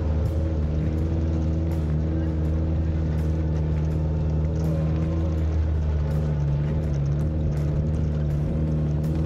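Suzuki Samurai's four-cylinder engine running at a steady, even pitch as the 4x4 drives along a sandy off-road track, with scattered short clicks and rattles.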